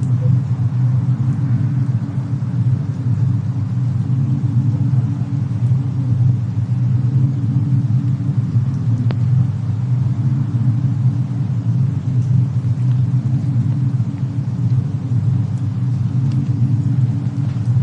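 Cabin fireplace-and-snowstorm ambience: a steady low rumble, with a faint fire crackle about nine seconds in and a few fainter ones near the end.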